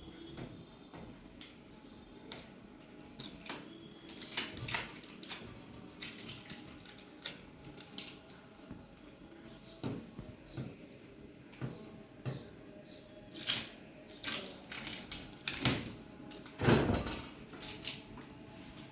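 Irregular handling noises as a boxed microwave oven is unpacked: scattered clicks, knocks and rustles, with a louder knock and rustle near the end.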